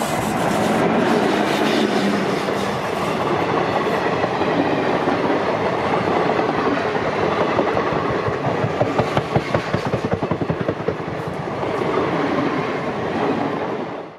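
A passenger train hauled by a WAP-4 electric locomotive passing, its wheels clattering over the rails, with a quick run of clacks about nine to ten seconds in. The sound cuts off suddenly near the end.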